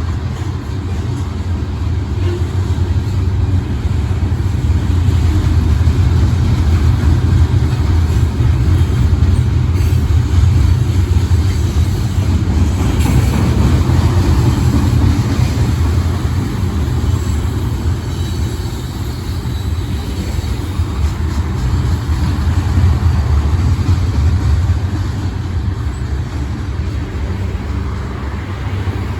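A long Iowa Interstate freight train rolling past, a steady low rumble of wheels on the rails that swells and eases slightly.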